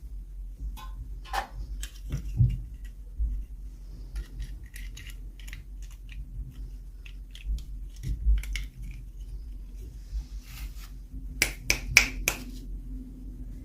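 Small plastic toy pieces and packaging being handled in an unboxing: scattered light clicks and taps, a brief rustle, then three sharp clicks close together near the end, over a steady low hum.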